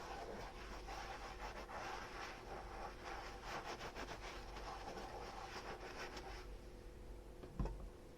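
A dish being scrubbed with a soapy sponge: a steady rubbing full of small clicks that eases off after about six and a half seconds. One dish or utensil is set down with a knock near the end.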